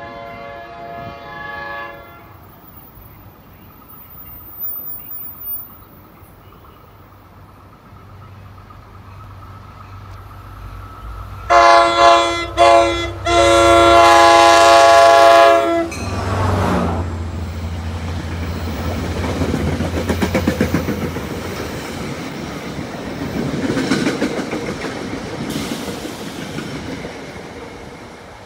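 NJ Transit GP40PH locomotive's air horn, heard faintly in the distance at first, then very loud about halfway through in several blasts ending in one long blast as the train nears. Then the low rumble of the locomotive's diesel engine and the clickety-clack of the passenger cars' wheels as the train goes by.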